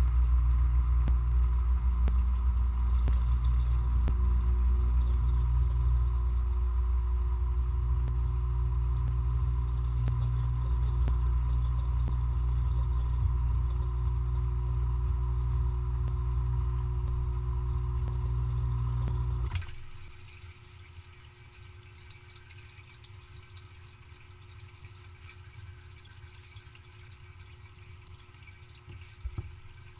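Dishwasher's pump motor running with a steady low hum, cutting off abruptly about two-thirds of the way through, leaving only faint water sounds inside the machine.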